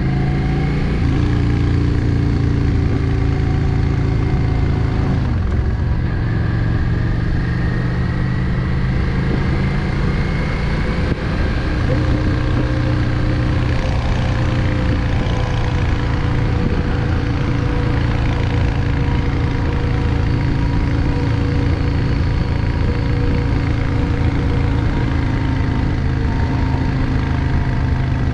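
Yamaha XVS 650 Drag Star's air-cooled V-twin running on the road, holding a steady note whose pitch shifts a few times as the throttle changes.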